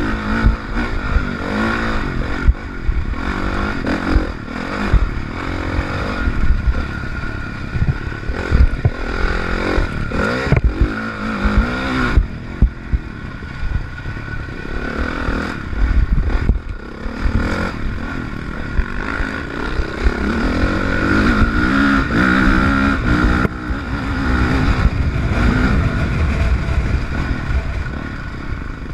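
Honda CRF450R dirt bike's single-cylinder four-stroke engine revving up and down as it is ridden hard, the pitch climbing and dropping repeatedly. Frequent knocks and clatter from the bike jolting over bumps.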